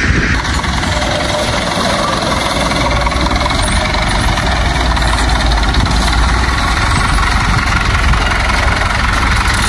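An engine running steadily, with a low drone underneath.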